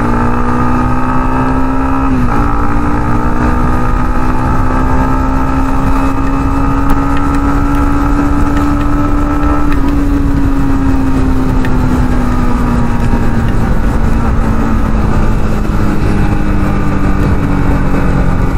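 Yamaha MT-15's 155 cc single-cylinder engine under hard acceleration: the note rises, drops at a gear change about two seconds in, then climbs slowly in the higher gear until nearly ten seconds in, after which the throttle eases and the note falls gradually as the bike slows.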